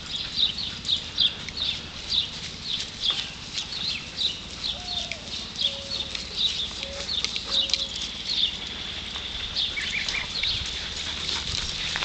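A small bird chirping over and over, about two to three short high chirps a second, thinning out a little after the middle.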